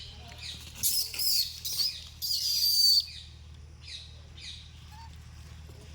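A monkey screeching: two loud, high-pitched screams, the first about a second in and a longer one ending at about three seconds, followed by a few fainter short squeaks near four seconds.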